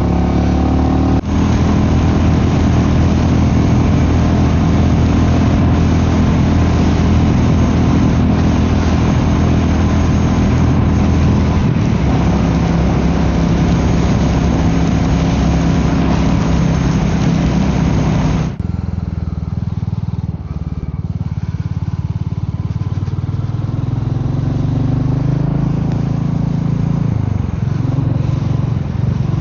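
Royal Enfield Meteor 350's single-cylinder engine running under way, with heavy wind and road rush. About two-thirds of the way in the rush cuts off suddenly, leaving the engine running at lower speed with a few rises and falls in revs.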